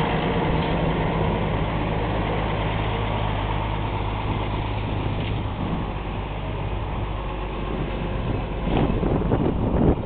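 Tractor engine running steadily at idle, with a few knocks near the end.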